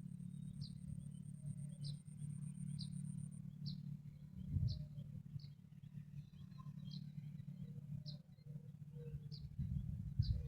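A bird repeating a short, high chirp at an even pace, about once every two-thirds of a second, over a steady low hum.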